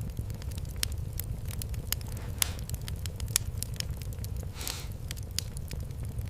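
Wood fire crackling, with irregular sharp pops over a steady low rumble, and a short hiss a little before five seconds in.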